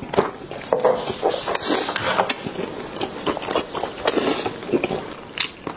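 Close-miked eating of chicken drumsticks in sauce: wet bites, chewing and lip smacks as a run of irregular sharp clicks and sticky smacks.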